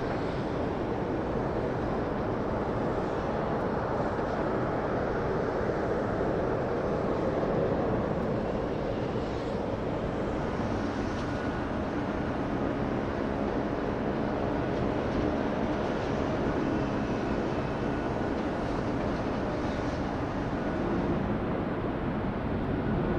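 Steady jet engine rumble of airliners at an airport, with a faint steady whine through the middle.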